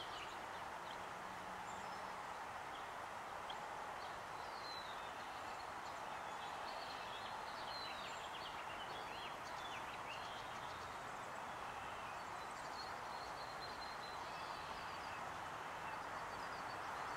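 Small birds chirping and twittering in short high calls over a steady, faint background hiss of outdoor ambience, with the calls thickest in the first half and again near the end.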